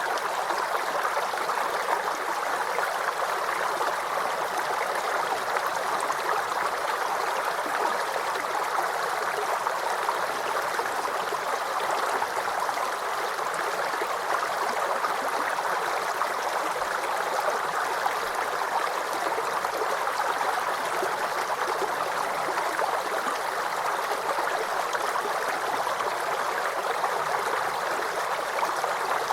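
Small forest creek babbling and gurgling steadily, a constant rush of flowing water that does not change.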